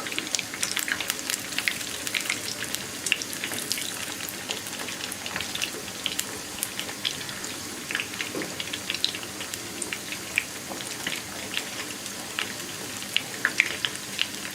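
Batter-coated chicken pieces deep-frying in hot oil: a steady sizzle with many scattered crackles and pops.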